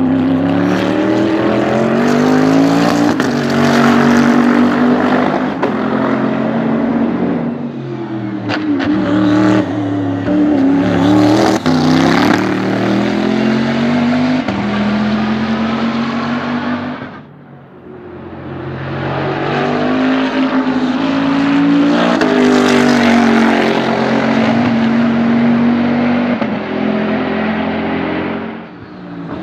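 Bentley Continental GT3 race car's twin-turbo V8 revving hard, its pitch climbing and dropping back at each of several gear changes. The sound falls away briefly about two-thirds of the way through, then builds up again through more shifts.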